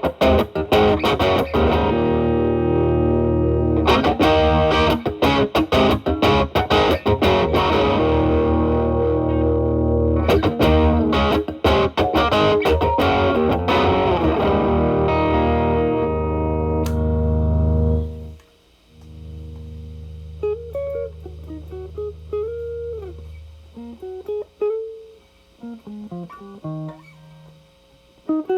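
Telecaster played through an E.W.S. Brute Drive distortion pedal into a Marshall Valvestate amp's drive channel, with loud, densely distorted chords and riffs and the pedal's volume at maximum. About two-thirds of the way in the level drops suddenly as the tone cleans up, leaving quieter, cleaner single notes and short phrases.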